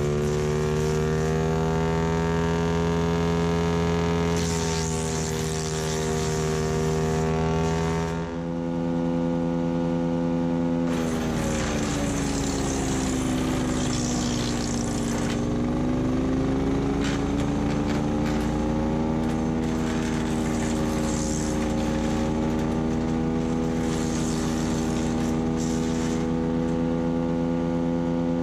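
Split-Fire 4090 wood chipper running on its single-cylinder Honda GXV390 engine while chipping dry, brittle deadwood, with crackling from the branches being chewed. A little over a third of the way in, the engine note sags as it works through a thicker branch, then climbs back up to speed.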